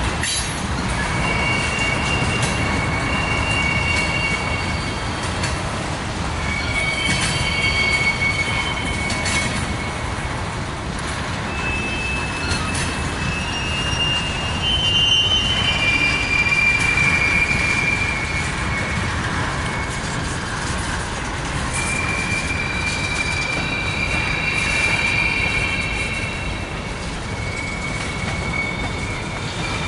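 Freight train of covered hoppers and tank cars rolling slowly past, with a steady rumble of wheels on rail. High-pitched wheel squeal comes and goes in several long stretches.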